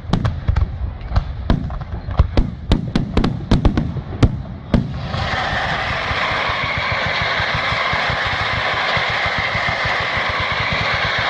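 Fireworks: a rapid string of sharp bangs and cracks for about five seconds, then the bangs stop suddenly and a steady, even noise with a fast low pulsing takes over.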